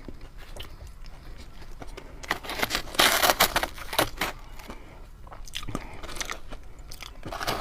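Ice being bitten and crunched between the teeth in irregular runs of crackling crunches, the loudest and densest run about three seconds in.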